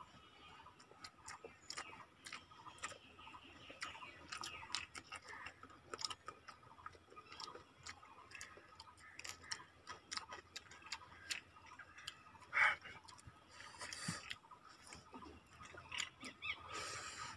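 Close-up eating sounds of two people eating rice and spicy chicken fry by hand: irregular soft clicks of chewing and lip smacking. One louder, sharper sound comes a little after the middle.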